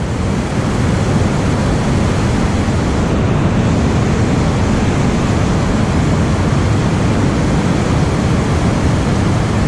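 Steady loud rushing of water, an even noise that holds without a break.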